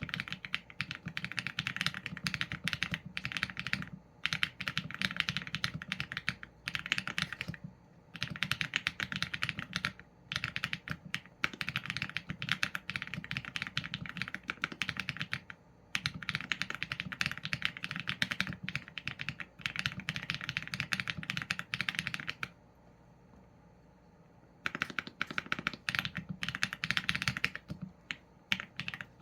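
Typing on a Qsenn A75 mechanical keyboard with Leobog Graywood v4 linear switches and PBT keycaps: keys clicking in fast runs broken by short gaps, with a pause of about two seconds two-thirds of the way through.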